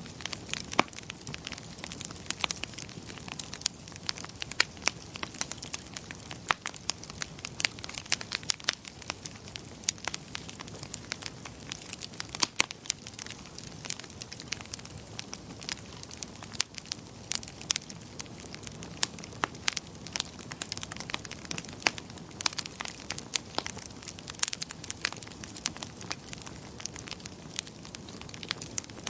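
Wood fire crackling in a fireplace: a steady low rumble of burning with many sharp, irregular pops and snaps.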